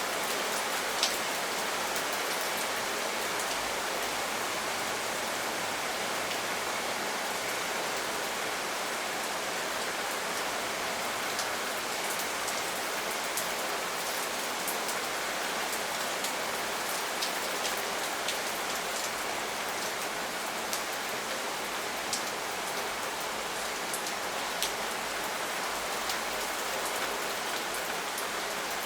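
Steady rain falling on a surface, with individual drops ticking here and there.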